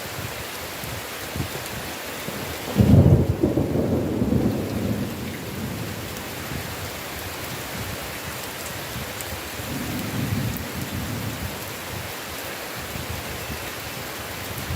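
Steady heavy rain with thunder: a sudden loud low rumble about three seconds in that dies away over a couple of seconds, and a softer rumble later.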